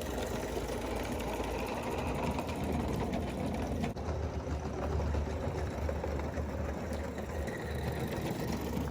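Mamod 16 mm scale live-steam locomotive running, a rapid, steady mechanical chuffing clatter over a constant low rumble.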